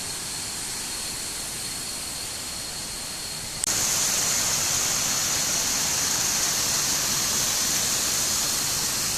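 Kuang Si waterfall rushing, a steady noise of falling water that jumps suddenly louder and brighter a little over a third of the way in.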